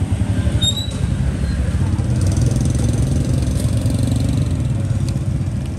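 An engine running steadily close by, a low, fast pulsing hum that is louder than the talk around it. Two brief high chirps sound near the start.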